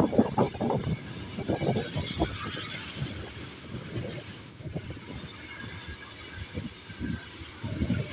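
Freight train of covered box wagons rolling past, its wheels knocking and rumbling over the rails. The clatter is loudest in the first second, then settles to a steadier, quieter run of irregular knocks.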